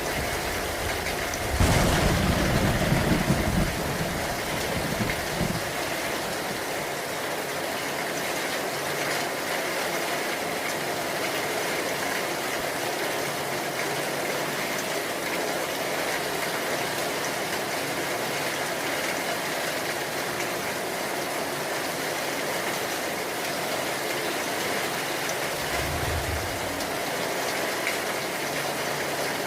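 Steady rain hissing, with a loud low rumble of thunder about two seconds in that lasts around two seconds and trails off, and a shorter, fainter low rumble near the end.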